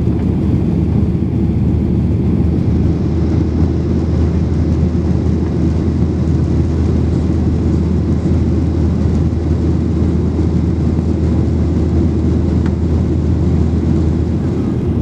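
Boeing 737-800 engine and cabin noise: a deep, steady rumble that does not change.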